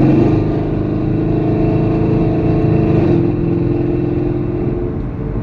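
2019 Camaro SS's 6.2-litre LT1 V8, catalytic converters removed and running through the factory active exhaust, heard from inside the cabin under light throttle: a steady, pretty loud exhaust note. The note steps down slightly in pitch about three seconds in.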